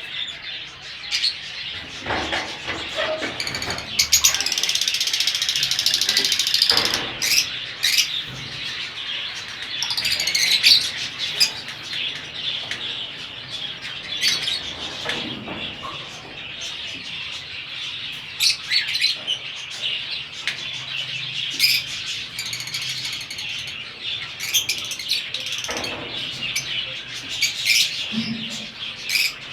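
Lovebirds chirping and chattering: many short, sharp calls, busiest for a few seconds early on.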